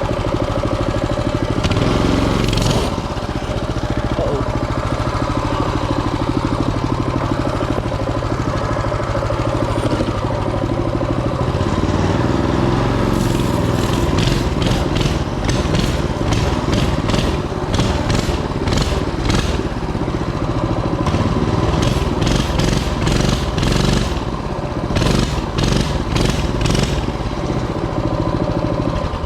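Mini bike engine running steadily during a ride, with short rushes of noise repeating through the middle and later part.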